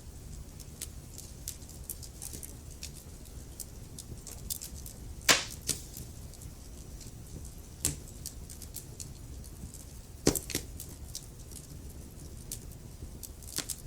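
Wood fire crackling in a fireplace: scattered sharp snaps and pops over a low steady rumble, with two louder pops about five and ten seconds in.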